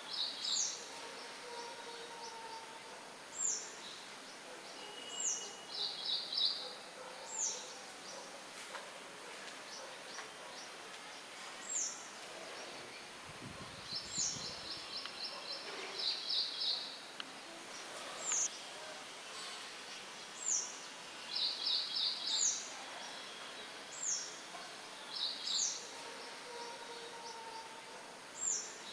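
Songbirds chirping: short high calls that slide down in pitch, repeated every second or two, with quick trilled phrases in between. Beneath them is a steady hiss of light wind through leaves.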